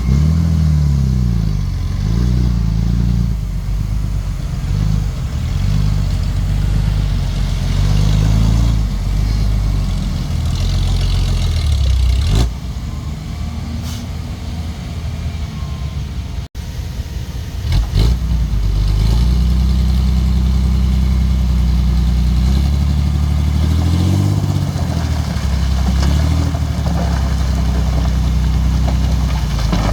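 Komatsu D31P bulldozer's diesel engine working under load, repeatedly revving up and dropping back in pitch, with a few sharp knocks around the middle.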